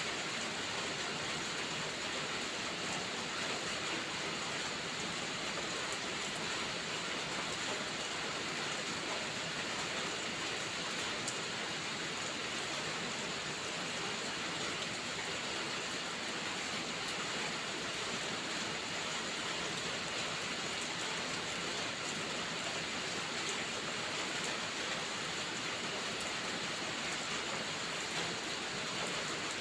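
Steady rain falling, an even hiss with no breaks, with a few faint sharp ticks now and then.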